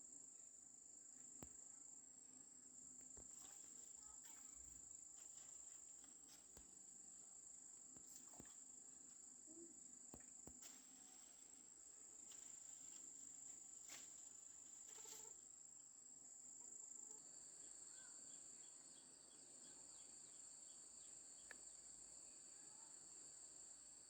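Insects trilling: a faint, steady, high-pitched whine, with a second, lower insect trill joining about two-thirds of the way in. A few faint clicks here and there.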